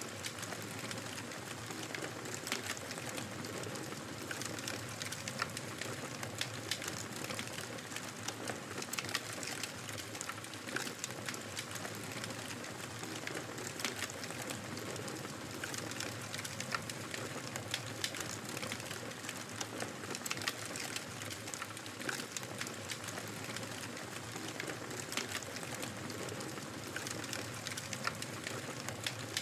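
Wood fire in a fireplace crackling steadily, with frequent small pops and snaps over a soft hiss of burning.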